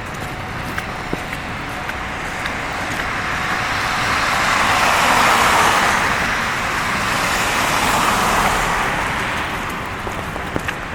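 Traffic passing on a snow-covered street: the hiss of tyres through snow and slush swells over a few seconds, is loudest just past halfway, rises again briefly, then fades.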